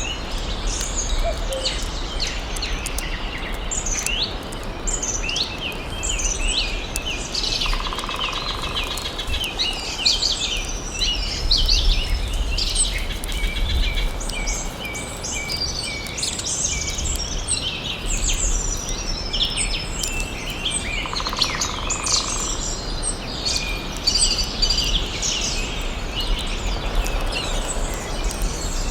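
Many birds chirping and singing at once, a dense chorus of short, high calls and trills, with two brief buzzy notes and a steady low rumble underneath.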